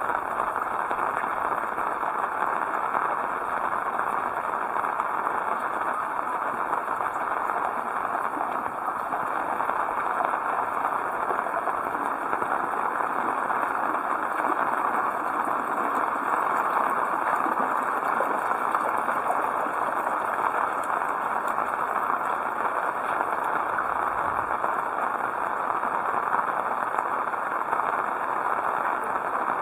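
Heavy rain falling steadily, an even hiss of patter with no letup.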